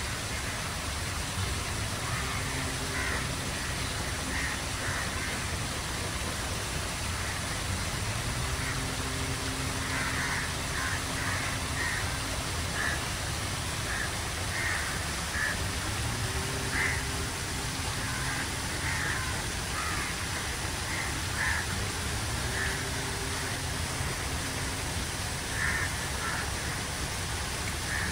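Steady outdoor background noise with birds calling in short repeated calls throughout, and a low hum that comes and goes every few seconds.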